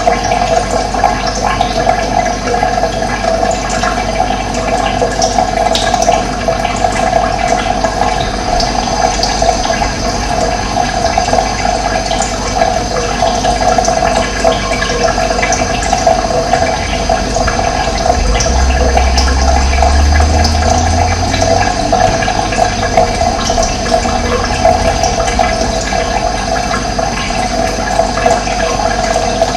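Running water flowing steadily, with faint short bird chirps now and then. A low rumble joins for a few seconds past the middle.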